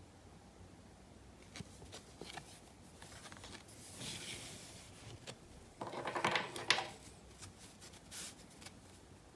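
Trading cards and their packaging being handled: a few light taps and clicks, a soft rustle, then a louder burst of cards sliding and rustling near the end.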